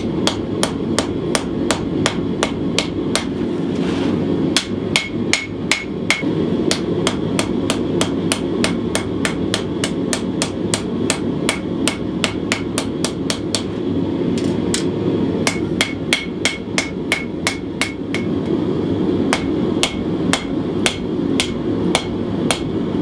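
Hand hammer forging hot 1095 steel on an anvil: rapid, steady blows at about two to three a second, some ringing briefly, with short pauses between runs, over a steady low rumble. The strokes are drawing out a knife's clip point and sway back.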